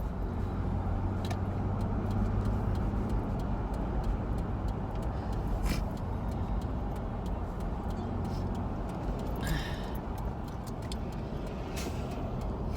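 Steady low road and engine rumble heard from inside a moving car's cabin, with scattered faint ticks.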